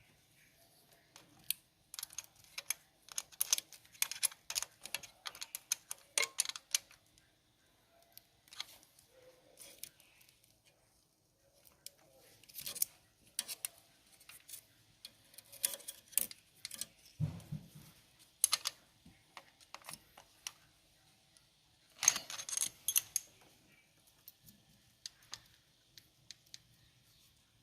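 Metal hand tools clicking and clinking against the rocker arms of a 4D56 engine as its valve clearance is adjusted. The clicks come in several bursts with short pauses between them.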